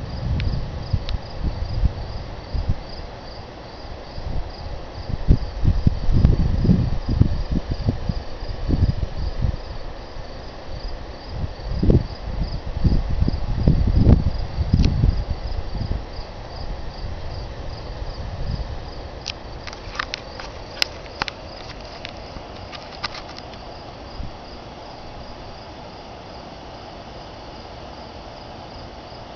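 Crickets chirping in a steady, even pulse, under low rumbling and buffeting sounds through the first half, with a few sharp clicks a little past the middle.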